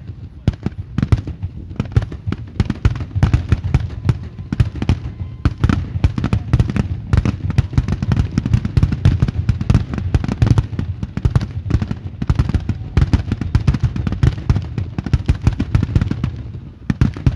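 Aerial fireworks shells going off in a rapid, continuous barrage: many overlapping booms and bangs with a steady low rumble beneath, dying away near the end.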